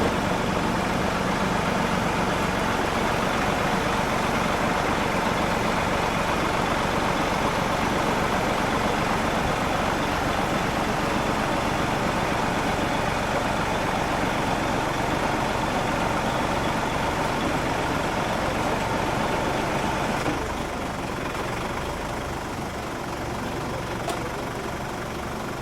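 A truck's engine running steadily, with a steady whine over it until about twenty seconds in, when the sound drops a little.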